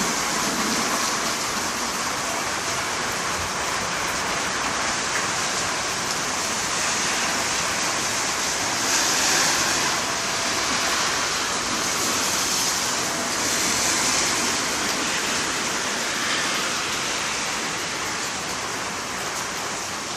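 Heavy tropical-storm rain falling steadily, with a rushing wash of pouring water that swells slightly a couple of times.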